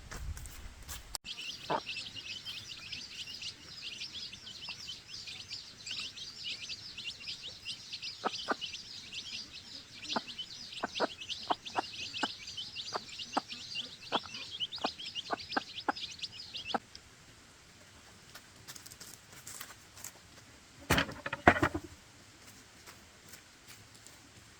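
Many birds chirping in a dense stream of rapid high calls, with scattered sharp knocks among them. The chirping cuts off suddenly about 17 seconds in, and a single short, louder call follows a few seconds later.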